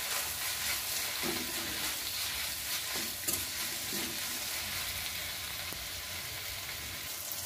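Onions, tomatoes and dried red chillies sizzling in oil in a metal kadai, frying down until soft. A steel spoon stirs and scrapes through them a few times in the first four seconds.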